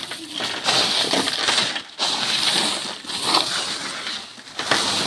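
Heavy hailstorm: a dense, crackling patter of hailstones striking hard surfaces, with brief dips in level about two and three seconds in.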